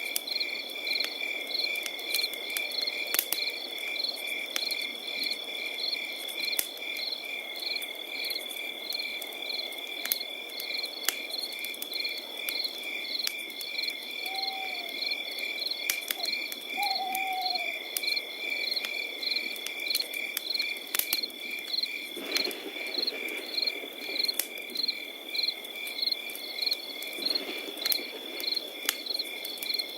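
Crickets chirping in an even rhythm of about two to three chirps a second over a continuous high insect trill, with the scattered crackle and pop of a campfire beneath. Two short falling calls, perhaps from a frog, come near the middle.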